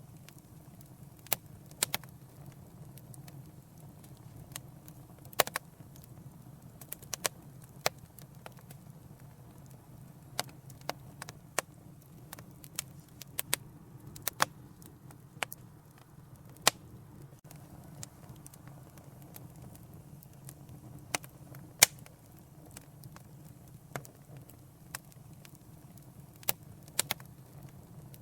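Wood fire crackling in a fireplace: irregular sharp pops and snaps, some much louder than others, over a low steady rumble.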